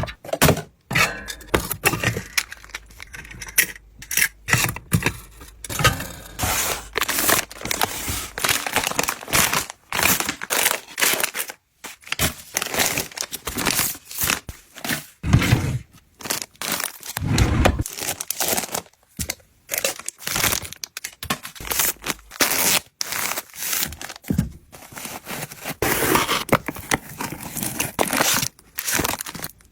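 Packaging being opened by hand: wrappers tearing and crinkling in many short, irregular bursts.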